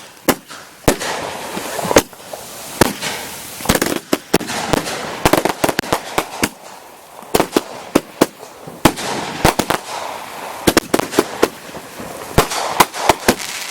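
Multi-shot consumer firework cakes firing: a rapid, irregular series of sharp bangs, sometimes several a second and sometimes in quick clusters, over a steady crackle.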